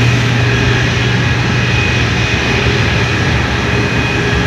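Loud, steady drone of running power-plant machinery at a gas turbine unit: a strong low hum with faint high steady whines over it.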